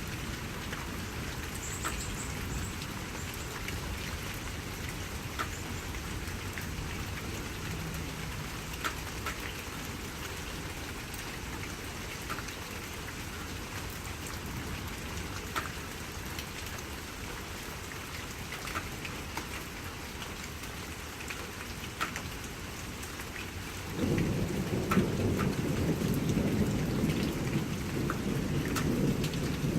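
Steady rain falling, with scattered sharp drips of individual raindrops. About three quarters of the way in, a low rumble of thunder swells up suddenly and keeps rolling to the end.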